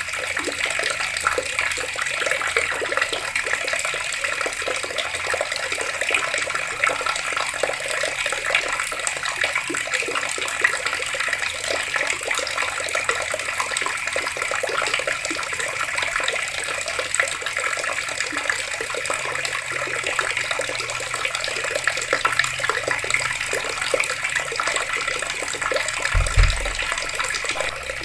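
Water running steadily from taps, with a brief low thump near the end.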